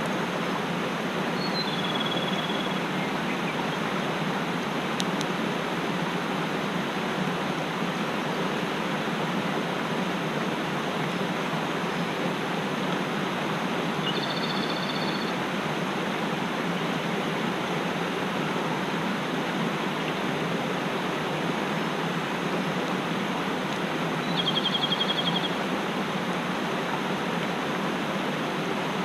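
Mountain stream rushing steadily. A small bird calls briefly three times over it, the last call a short trill.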